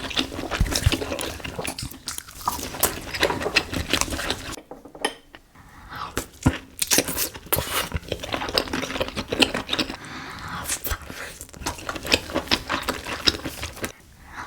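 Close-miked seafood-boil eating sounds: a dense run of clicks and clinks from utensils, shells and dishes, with wet, saucy handling of the food, easing off briefly about five seconds in.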